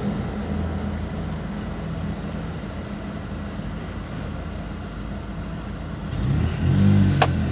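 Low, steady hum of a running vehicle. It swells louder about six seconds in with a brief rise and fall in pitch, then a sharp click near the end.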